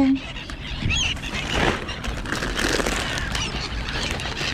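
A few brief high bird calls about a second in, over steady outdoor background noise with scattered rustling.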